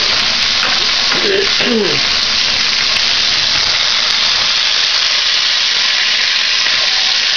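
Chopped carrots, onion and celery sizzling in a hot soup pot: a loud, steady frying hiss.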